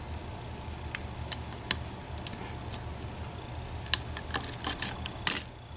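Sharp little metallic clicks and ticks of a lock pick and tension wrench working the pins and sliders of an EVVA ICS lock cylinder: sparse at first, coming thicker from about four seconds in, with the loudest click near the end. A low steady hum runs underneath.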